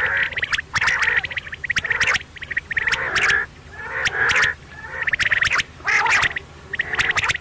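Quail calling over and over, a burst of sharp, rapid notes about once a second.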